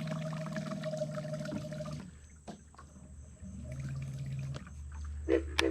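Electric trolling motor running in very shallow water, its propeller slapping and churning the surface. The motor's hum cuts out about two seconds in and comes back briefly later, with a few sharp knocks near the end.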